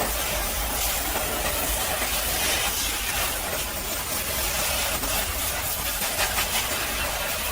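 High-pressure washer jet spraying a steady hiss of water over a low constant hum.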